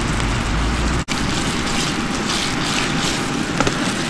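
Chicken leg meat sizzling as it is stir-fried in oil in a pan: a steady hiss, broken off for an instant about a second in.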